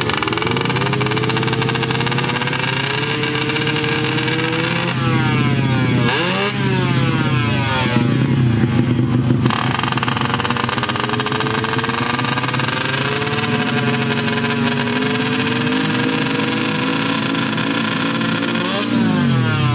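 Small underbone drag motorcycles' engines running at high revs, their pitch climbing slowly. About five seconds in, and again near the end, quick rising and falling pitch sweeps cross over the steady note.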